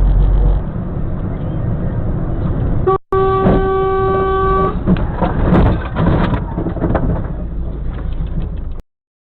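Car on the road with a steady low rumble. After a cut, a car horn blares for about a second and a half, then a series of sharp knocks and crunching noise, as in a collision, before the sound stops suddenly.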